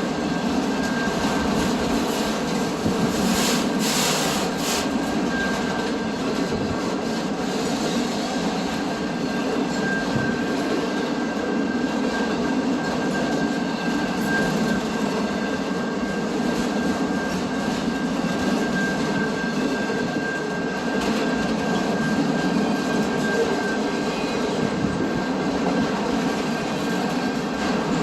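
A train rolling past on the tracks: a steady rumble of wheels on rail, with a thin, high wheel squeal running through it and a few sharp clicks a few seconds in.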